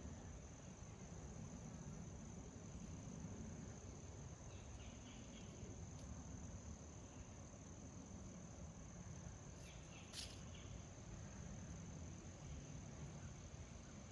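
Faint, steady high-pitched trill of crickets, unbroken throughout, over a low rumble, with a single brief click about ten seconds in.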